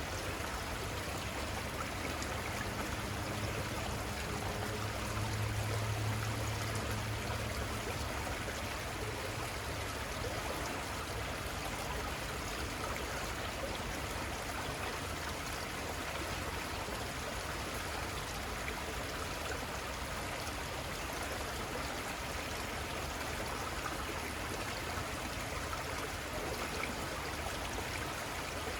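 Small river running steadily, a continuous rush of flowing water. A low hum swells and fades in the first ten seconds.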